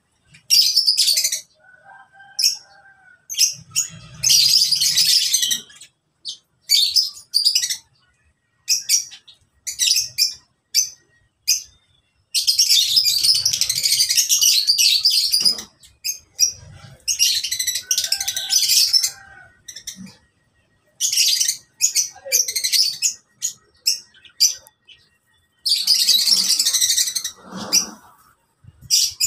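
Lovebirds in an aviary chattering in high, rapid chirps, in bouts of one to three seconds broken by short pauses.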